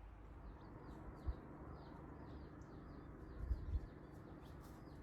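A small bird calling: a quick series of short, high chirps, each falling in pitch, about three a second, over a low rumble with a couple of dull thumps.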